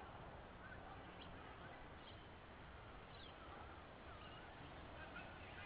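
Faint, scattered bird chirps and short twittering calls over steady low background noise.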